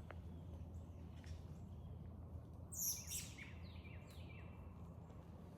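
Small birds chirping, a series of short downward-sliding calls, with a louder harsh, scratchy burst about three seconds in, over a steady low background rumble.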